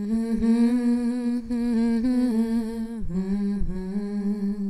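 A woman humming a wordless melodic line, unaccompanied, held with a slight waver and a short break about three seconds in.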